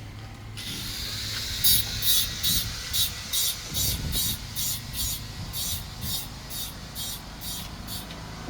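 A hand tool scraping wood in quick, even strokes, about three a second, during plank work on a wooden boat hull.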